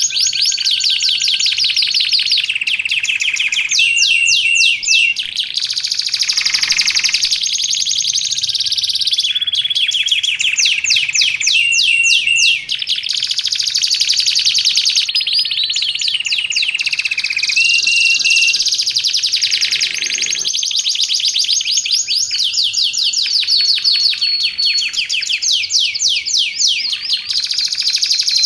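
Domestic canary singing a continuous song of fast trills and rattling rolls, changing to a new phrase every second or two with no pauses.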